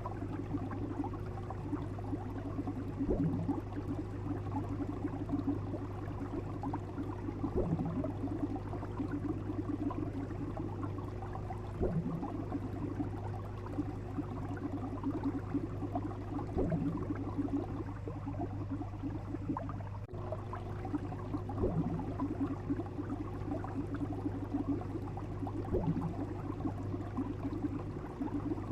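Water bubbling and gurgling over a steady low hum, with a soft pulse recurring roughly every four to five seconds.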